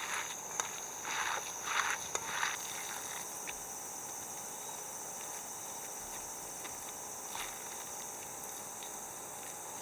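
A few footsteps, about two a second, that stop after about two and a half seconds, over a steady high-pitched insect chorus that carries on alone.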